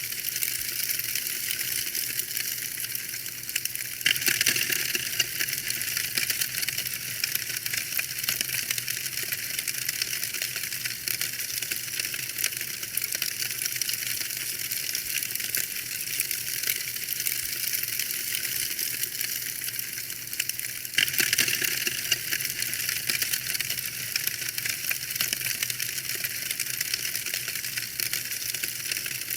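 Wood fire in a fireplace crackling steadily, a dense run of small pops and snaps over a soft hiss. It swells briefly louder about four seconds in and again about twenty-one seconds in.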